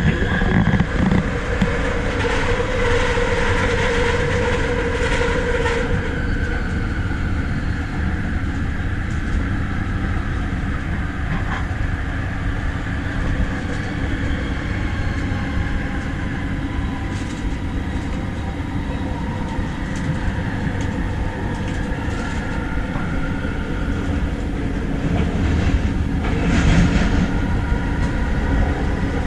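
Running noise of an electric rapid-transit train heard from inside the carriage: a steady rumble with whining tones that shift in pitch, and a brief louder rush near the end.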